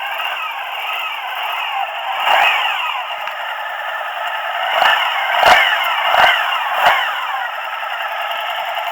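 Suzuki DL1000 V-Strom's V-twin engine running at idle just after starting, chugging away evenly. A few short rises and falls in pitch come once early on and several times past the middle, like brief blips of the throttle.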